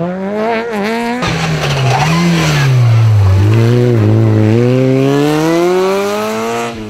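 Rally car engine at full racing load: the engine note dips, then climbs steadily for about three seconds as the car accelerates hard. There is an abrupt change in the sound about a second in.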